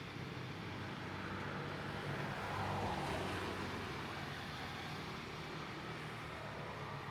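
Steady traffic noise with a low engine hum, as a vehicle passes, swelling to its loudest about three seconds in and then fading.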